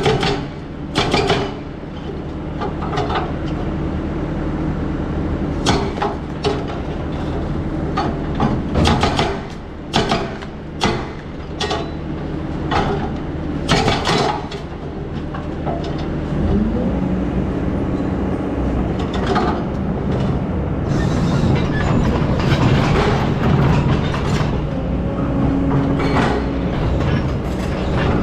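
Hydraulic excavator's diesel engine running, with a series of sharp knocks and clanks through the first half. About halfway through, the engine revs up and runs louder under load.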